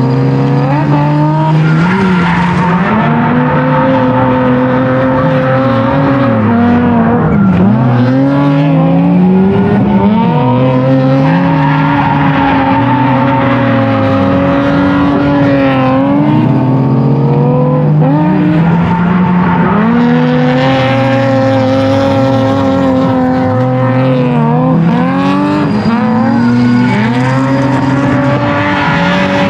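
Mazda FC RX-7's naturally aspirated 13B rotary engine held at high revs during a drift run, the pitch falling and climbing again every few seconds as it shifts and slides, with tyre squeal.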